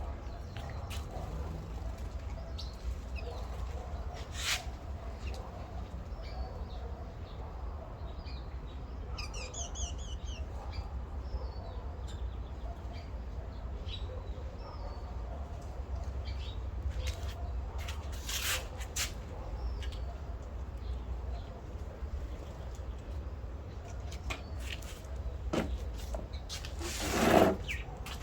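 Small garden birds chirping now and then, with a quick run of high chirps about ten seconds in, over a steady low rumble. There are a few sharp clicks, and a louder rustling knock comes near the end.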